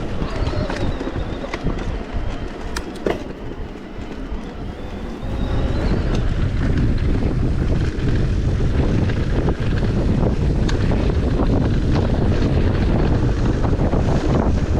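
Wind buffeting the microphone over a steady rattle and clatter while riding down a trail. It gets much louder about five seconds in as the speed picks up.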